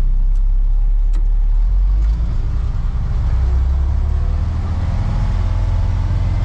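Heavy diesel engine of an off-road haul truck running with a steady deep rumble, its low tone shifting about two seconds in. Two faint clicks near the start.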